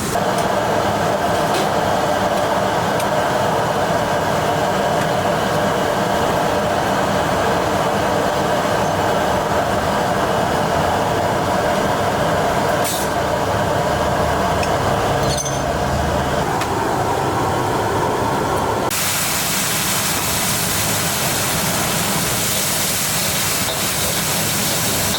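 Steady loud roar of a commercial kitchen at work. About nineteen seconds in it switches suddenly to a brighter, higher hiss.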